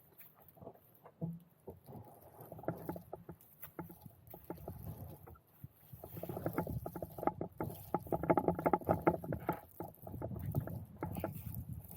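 A Bonafide SS127 plastic fishing kayak being handled and moved, with many irregular knocks and rubbing on the hull. The sounds are sparse at first and grow much busier about halfway through.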